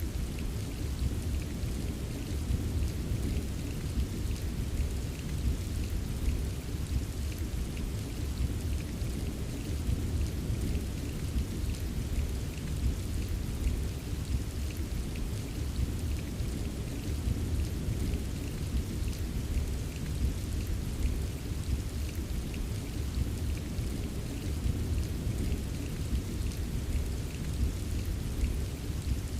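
Steady rain pattering, with small irregular drop taps, over a continuous low rumble of distant rolling thunder.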